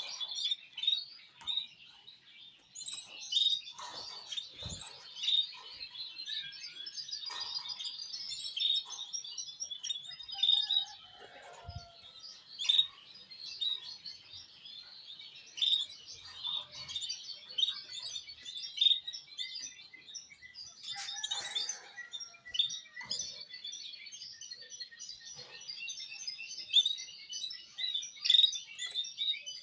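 Small caged birds chirping, with many short, high calls repeated over and over. A couple of dull knocks come in among them.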